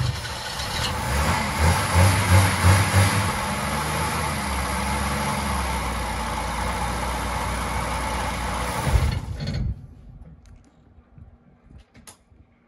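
1971 Opel Kadett B's four-cylinder engine running, its revs rising and falling for the first few seconds and then holding steady. It cuts out suddenly about ten seconds in.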